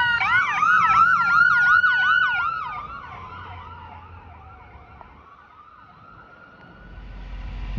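Emergency vehicle sirens from a passing fire engine and ambulance: one siren is in a fast yelp, about four up-and-down sweeps a second, over a second siren in a slow wail that winds downward. Both fade away after about three seconds, and a low rumble rises near the end.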